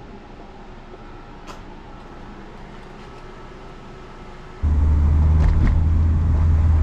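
Steady low background sound, then about two-thirds of the way in a loud, steady low rumble of a car running starts suddenly.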